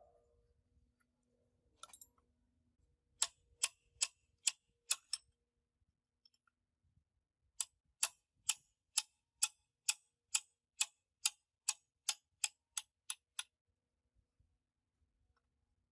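Sharp clicks at an even pace of about two a second: a run of five, then after a short pause about fifteen more, quickening slightly toward the end.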